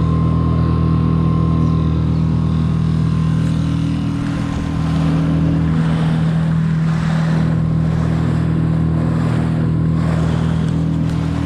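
Small Tohatsu 3.5 hp outboard motor running at a steady speed, held at about half throttle during its break-in, with a constant hum and a rush of wind and water over it.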